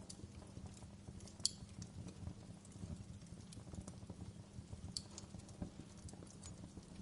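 Wood fire crackling in a fireplace: a steady low rumble of burning with irregular small crackles and two sharper pops, about a second and a half in and near five seconds in.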